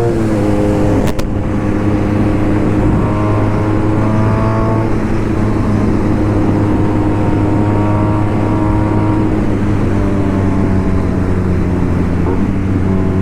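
BMW R nineT Racer's air/oil-cooled boxer twin running under way through a full BOS exhaust with a Boxercup muffler. The engine pitch climbs and then steps down a couple of times, as on gear changes.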